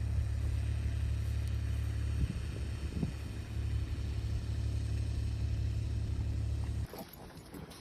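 A steady low rumble that cuts off abruptly about seven seconds in, leaving a quieter background.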